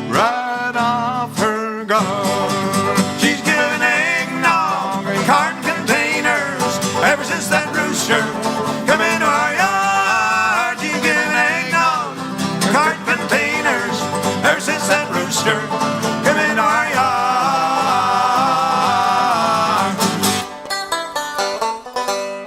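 Bluegrass string band playing an instrumental break: acoustic guitar and banjo picking with a lead melody line that slides in pitch. Near the end the low accompaniment drops out and the banjo carries on.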